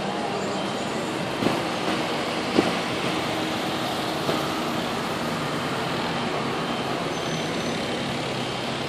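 Steady outdoor street noise like traffic, with three short knocks about a second and a half, two and a half and four seconds in.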